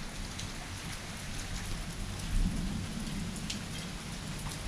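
Steady rain falling, with single drops ticking close by and a low rumble of thunder swelling about two seconds in.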